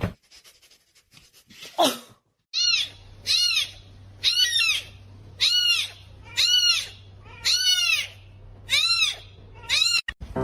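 A kitten meowing over and over: about eight high, arched mews, evenly spaced a little under a second apart, over a steady low hum. Just before them, one quick call slides sharply down in pitch.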